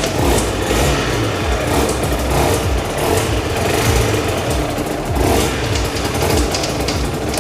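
Two-stroke Aprilia motorcycle engine running and revved several times, with the bad engine noise the owner is chasing, which he suspects comes from either the crankshaft drive or the gearbox.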